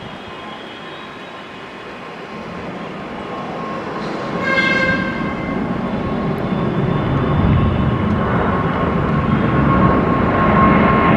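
Jet airliner engines growing steadily louder as the aircraft approaches, with a steady whine over the rumble. A brief, slightly falling pitched tone sounds about halfway through.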